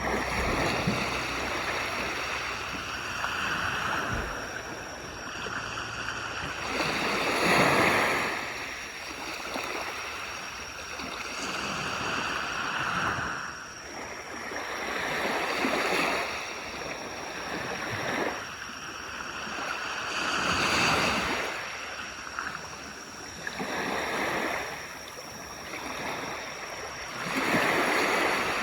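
Small waves breaking and washing up a beach, a hissing surge that swells and falls back every four to five seconds, one louder wash about a quarter of the way in.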